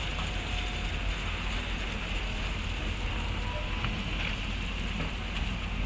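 Steady low diesel rumble with a hiss over it, from a hydraulic excavator working as it loads a dump truck.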